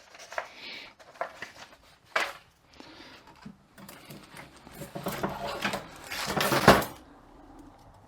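Small transmission parts and snap rings being handled on the bench: scattered light clicks, clinks and rustling, with a louder, longer scrape-like noise about six and a half seconds in.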